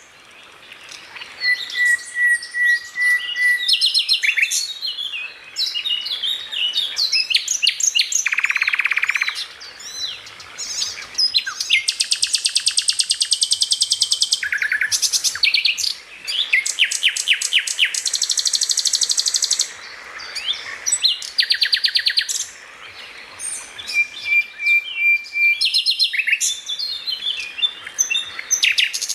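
A songbird singing a long, varied song: fast trills and buzzy rattles, quick chirps and a few short steady whistled notes, with brief pauses between phrases.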